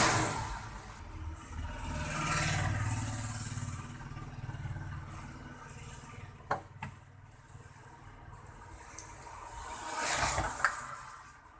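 Vehicles passing on a road: three swells of traffic noise that build and fade, one with a low engine hum under it. A few sharp clicks sound between and at the end of the swells.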